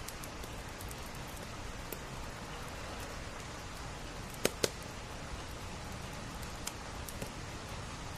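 Steady rain hiss with scattered sharp pops from a crackling wood fire, two louder pops close together about halfway through.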